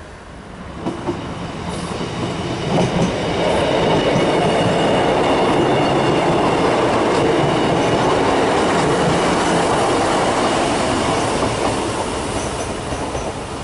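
Diesel passenger train passing close by, its wheels clattering over rail joints and pointwork with a thin wheel squeal. The noise builds over the first few seconds, holds loud, and eases off near the end.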